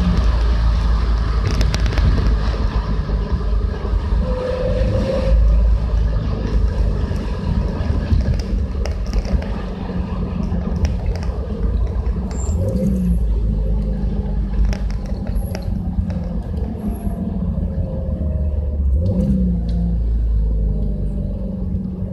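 Exhaust note of a Subaru Legacy BL5 GT's turbocharged 2.0-litre flat-four running steadily at low revs, a deep drone with brief dips and rises in pitch about a second in, around the middle and near the end.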